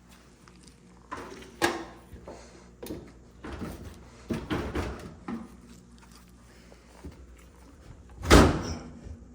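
Clunks and knocks of a GE dryer's panels and parts being handled during disassembly: a scattered run of knocks, then one loud bang about eight seconds in.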